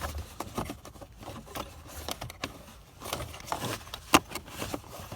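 Plastic clicks and scrapes of the Dodge Journey's glovebox and cabin air filter cover being handled and refitted, with one sharper click about four seconds in.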